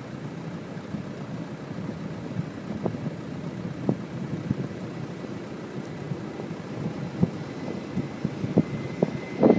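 Wind buffeting the microphone with irregular low thumps, and a faint steady high whine of an approaching aircraft's engines coming in near the end.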